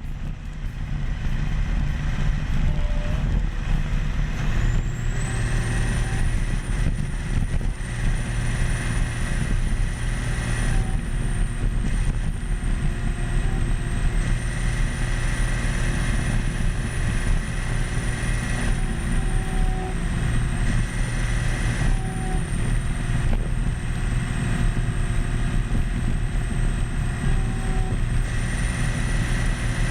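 Caterpillar D10 bulldozer's diesel engine running steadily under load, with a high whine that comes in about five seconds in and holds.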